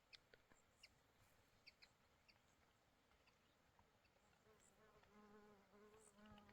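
Near silence with faint, scattered high chirps; in the last two seconds, a faint buzzing of an insect in flight.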